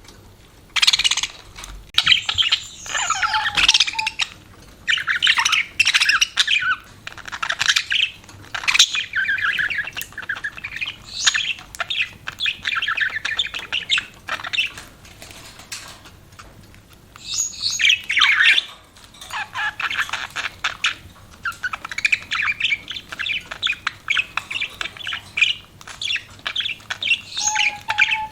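Budgerigars chattering and warbling in a continuous run of fast, scratchy chirps and squawks, broken by brief pauses.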